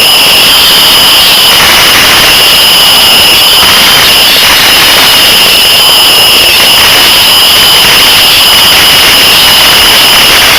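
Consumer 1.4G firework fountain spraying, a steady loud hissing roar with a high tone held over it.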